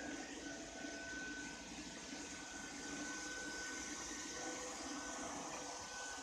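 Ropo Glass robot vacuum cleaner running: a steady whirring hiss with a thin, constant high whine on top.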